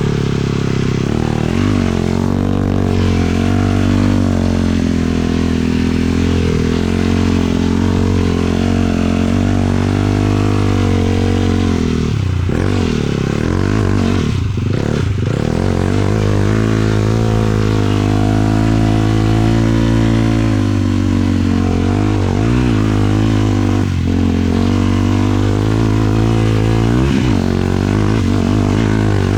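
A 450-class sport quad's single-cylinder four-stroke engine running under throttle on a ride. Its pitch stays mostly steady, drops and climbs again a couple of times about halfway through as the throttle is eased off and reopened, and dips briefly near the end.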